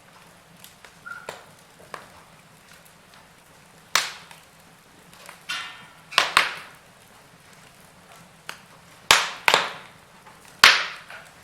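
Wood fire crackling in a fireplace: a faint steady hiss broken by sharp pops and snaps of burning wood, several loud ones spaced irregularly through the second half.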